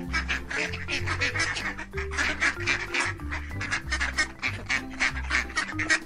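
Ducks quacking in a rapid, continuous series of short calls, over light background music.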